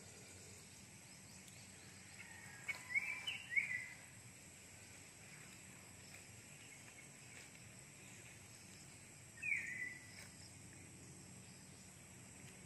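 Faint outdoor ambience with a few short, falling bird chirps: a cluster about two to four seconds in and one more near ten seconds.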